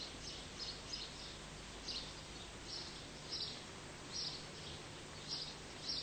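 Outdoor garden ambience: a small bird chirping, a dozen or so short high chirps at an irregular pace, over a faint steady hiss and low hum.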